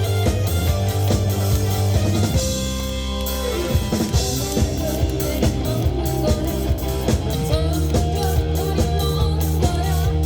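Live rock band playing loudly: drum kit, bass and electric guitar.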